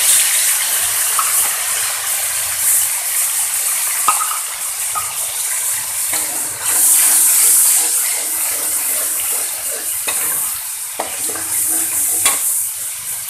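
Wet blended spice paste sizzling in hot oil in a metal wok, a steady hiss that swells about six and a half seconds in. A metal spoon scrapes and clicks against the pan a few times as the paste is stirred.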